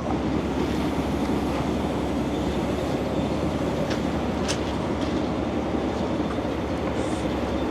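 A heavy machine's engine running steadily, with a couple of short metallic clicks about four seconds in.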